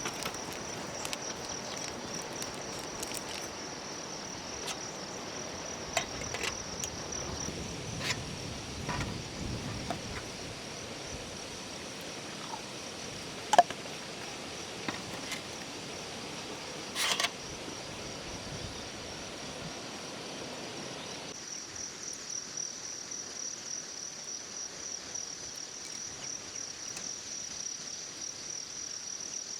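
Insects, crickets among them, trilling steadily at a high pitch. Scattered sharp clicks and knocks sound over it, the loudest about 13 and 17 seconds in, and a low rustling stops about 21 seconds in.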